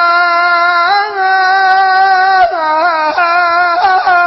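A single man's high voice holding a long sung 'yaa' in Iraqi mawwal style, rising slightly about a second in, then breaking into quick ornamented turns in pitch.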